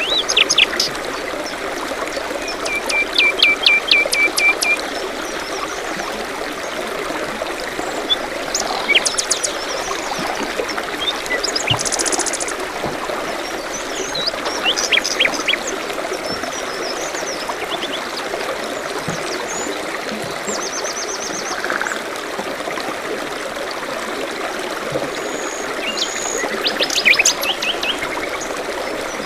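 Small birds chirping and trilling in short repeated phrases over a steady background of running water, like a forest stream.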